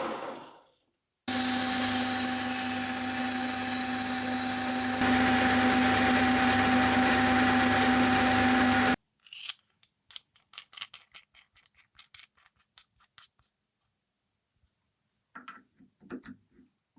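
A workshop power tool runs steadily for about eight seconds with a constant hum, then stops abruptly. A run of light clicks and a few knocks follow.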